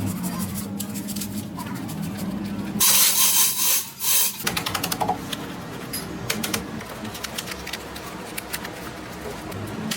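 Workshop hand work on an electric motor's winding: rubbing and scraping with irregular clicks, and a loud rushing noise about three seconds in that lasts about a second and a half.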